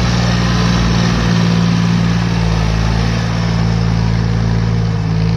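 Tractor engine running at a steady note throughout.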